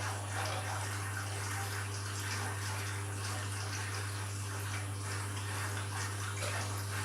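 Candy washing machine running an empty bleaching wash: a steady rush of water in the machine over a constant low hum.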